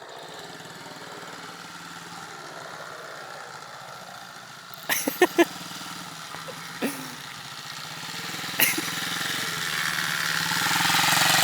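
SSR 110 pit bike's small single-cylinder four-stroke engine running at low speed, a steady drone that grows louder near the end. A few brief sharp sounds cut in about five seconds in.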